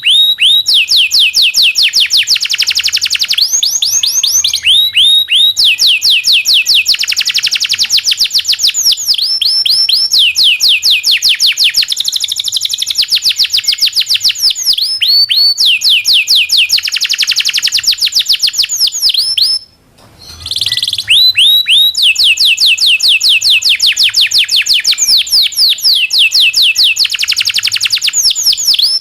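Domestic canary singing a long, fast song of rapidly repeated rising notes and rolling trills. The song breaks off abruptly for a moment about two-thirds of the way through, then carries on.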